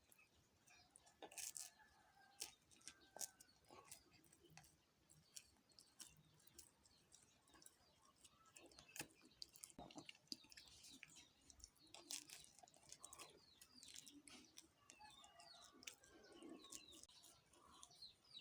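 Faint small birds chirping, more busily in the second half, with scattered light clicks and taps.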